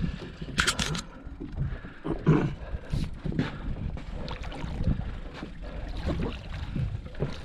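Sounds of a small fishing boat at sea: a steady low rumble of wind and water against the boat, with a few sharp knocks and clicks on deck, the first cluster about a second in.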